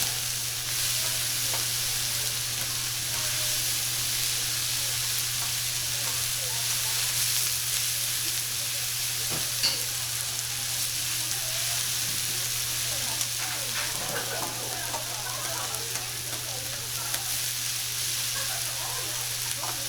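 Pork belly sizzling steadily on a hot iron griddle plate, with a steady low hum underneath and a single sharp click about ten seconds in.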